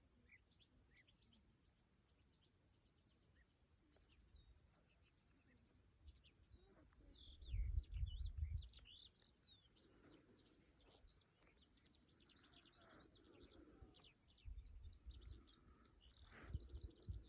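Faint songbirds chirping and trilling, many quick high notes. Low rumbling bursts come in about halfway through and again near the end.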